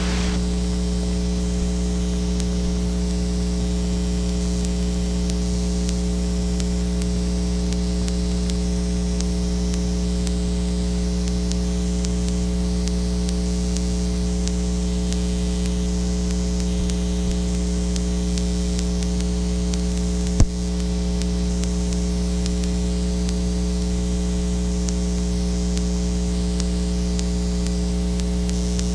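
Steady electrical mains hum with a row of overtones and a layer of hiss, with no other sound; a single sharp click about two-thirds of the way through.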